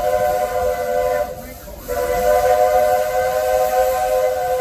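Steam whistle of Walt Disney World Railroad locomotive No. 4 Roy O. Disney, a chime whistle taken from the Roger E. Broggie engine, sounding a steady chord in two long blasts. The first blast cuts off about a second in and the second starts about two seconds in.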